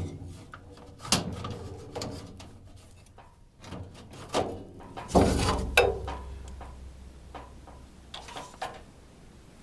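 Scattered knocks, clicks and scrapes of furnace parts being handled, with a longer scraping stretch about five seconds in.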